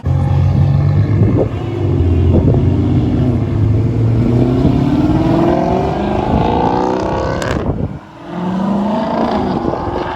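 Car engine running hard as the car accelerates, its pitch climbing steadily for several seconds; the sound drops off briefly about eight seconds in, then climbs again.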